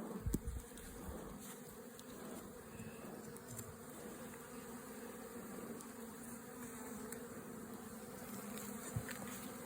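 Honey bees buzzing steadily around an open beehive, a dense, even hum of many bees. A few light knocks in the first second.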